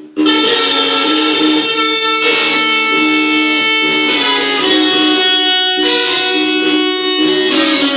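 Electric guitar playing a blues, with long sustained notes that change about every two seconds.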